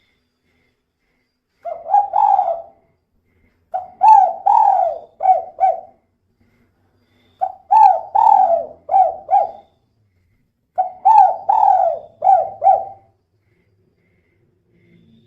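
Female spotted dove cooing: four phrases of coos, the first short and each of the next three about five notes long, with pauses of a second or two between them.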